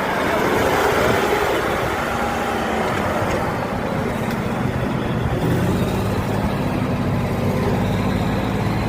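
Off-road trial truck's engine working hard, its pitch rising and falling in the first few seconds, then settling into a steady low drone about halfway through.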